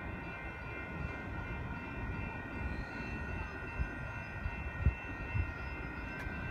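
Freight train rumbling as it approaches and rolls by, a steady low rumble with a few light knocks.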